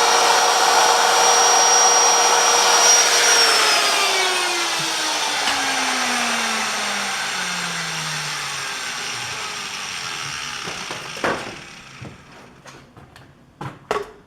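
Die grinder running with a steady high whine, then switched off about three seconds in and spinning down, its pitch falling as it slows and fades. A few sharp knocks near the end.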